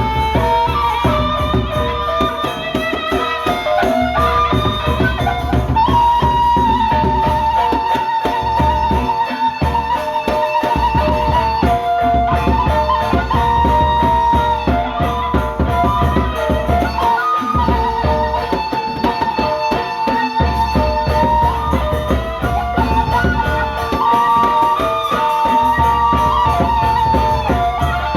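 Sasak gendang beleq ensemble playing traditional gamelan-style music: large drums beating a dense, driving rhythm under a melody that steps between held notes.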